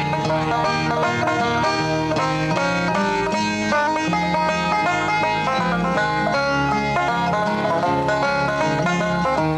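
Bluegrass music: a fast-picked banjo melody with guitar and a bass line at a steady tempo.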